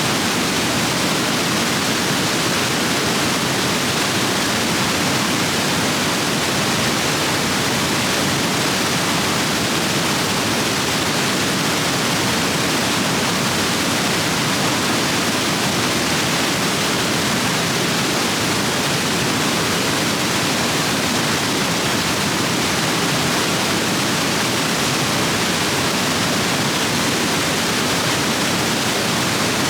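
Rapids of a rain-swollen stream rushing over rocks: a loud, steady rush of white water with no breaks.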